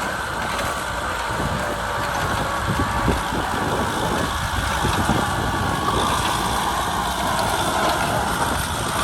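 Kubota tractor's diesel engine running steadily while plowing, its pitch wavering slightly past the middle.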